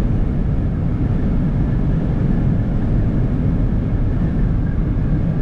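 Steady low rumble of a car on the road, heard from inside the cabin: tyre and engine noise.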